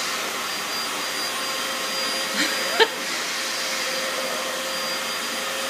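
Vacuum cleaner running steadily with a constant motor whine while it is used to groom cats. There is one brief sharp knock a little before the middle.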